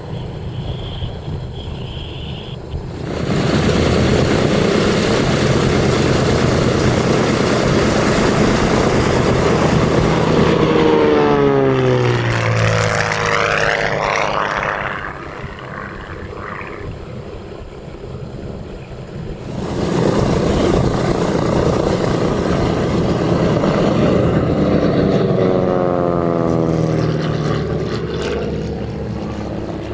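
Douglas C-47 Skytrain's twin radial piston engines and propellers passing by twice. Each pass swells up and then drops in pitch as the plane goes away, the first about ten seconds in and the second near the end.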